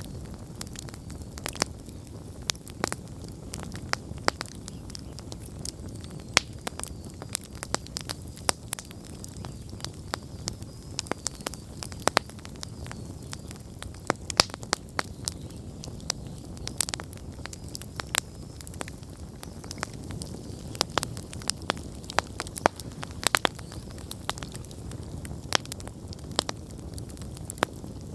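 Wood campfire burning, with a steady low rumble of flames and frequent sharp, irregular crackles and pops from the burning wood.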